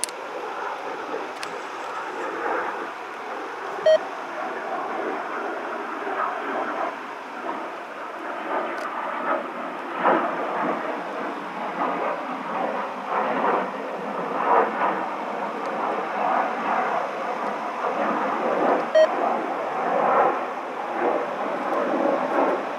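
Distant rumble of a CN local freight train coming slowly closer, with irregular swells and growing somewhat louder.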